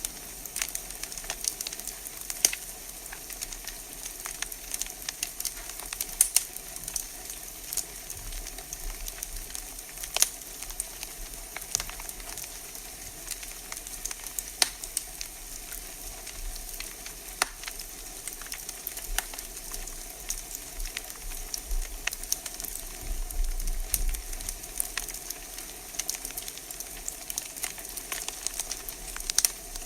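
Wood fire burning in a fireplace, crackling with irregular sharp pops and snaps over a steady hiss. A brief low rumble comes about three-quarters of the way through.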